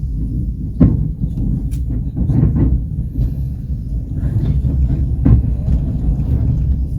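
Passenger train running on the track: a steady low rumble, with two sharp wheel knocks, about a second in and again near the end.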